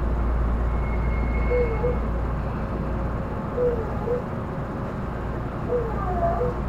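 Tobu Railway commuter train running, heard from inside the car: a steady rumble of wheels on rails, with short squealing notes a few times and a brief thin whine about a second in.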